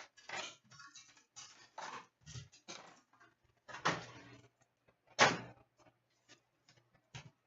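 A hockey trading-card box and its packaging being handled and opened: a series of short rustles, scrapes and knocks with short gaps between them, the loudest about four and five seconds in.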